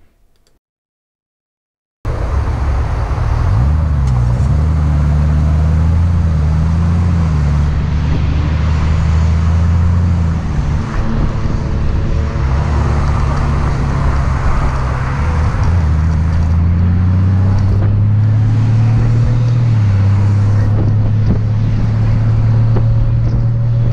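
Honda Gold Wing motorcycle's flat-six engine running at speed with wind and road noise, starting about two seconds in; its pitch rises and steps up a few times as the bike pulls away in traffic.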